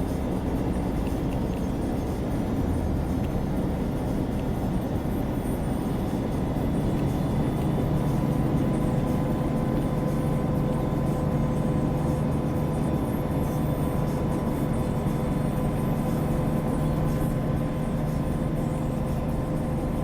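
A vehicle running steadily: a constant low rumble, joined by a faint steady hum about six seconds in.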